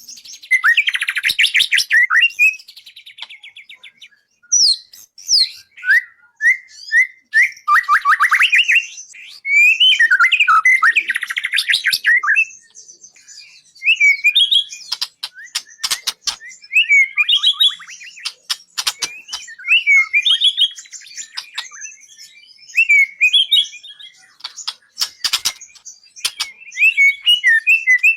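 Birdsong used as a masteran training recording for white-rumped shama (murai batu): a dense, varied run of whistled slurs, rapid trills and sharp clicking notes in quick succession, with brief pauses between phrases.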